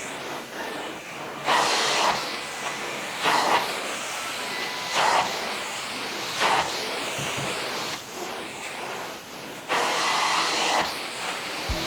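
Carpet-cleaning extraction wand working the carpet: a steady suction hiss that surges louder with each stroke, about every one and a half to two seconds, with a longer pass near the end.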